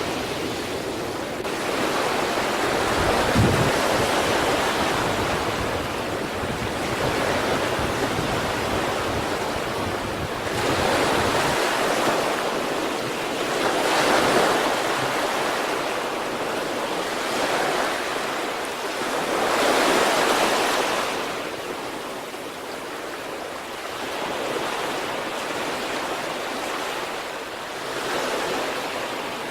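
Sea waves breaking and washing up the shore, surging every few seconds. A low rumble of wind on the microphone runs under the surf for the first dozen seconds or so.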